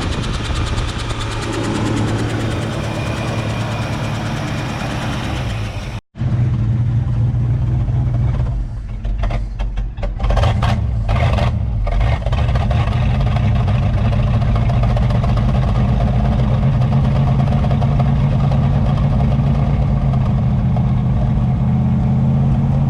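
1966 Ford Mustang engine running on a newly fitted fuel pump after years of sitting. There is a break about six seconds in; after it the engine settles into a steady idle with some unevenness for a few seconds, and it is starting to sound better.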